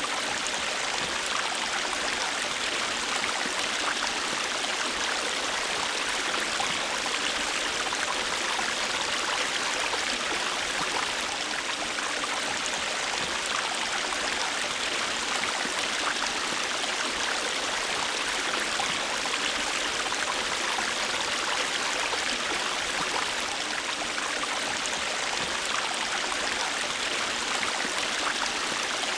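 River water flowing steadily, a continuous bright rushing with no pauses or changes.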